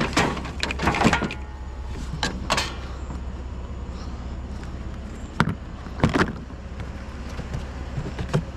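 Steady low vehicle rumble with several sharp knocks and clatters: a cluster near the start, two more around two and a half seconds, a pair past the middle, and one near the end.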